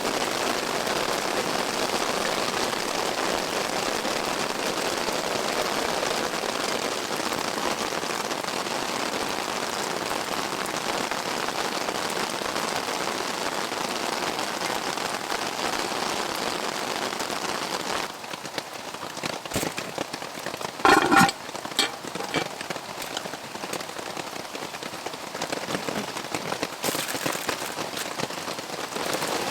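Steady heavy rain falling. About two-thirds of the way through it gives way to a quieter background with scattered crackles and pops and one loud pop, typical of a wood campfire.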